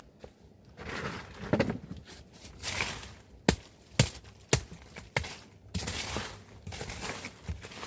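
Rustling of leaves and brush being handled, with four sharp knocks about half a second apart near the middle, as from chopping or striking wood.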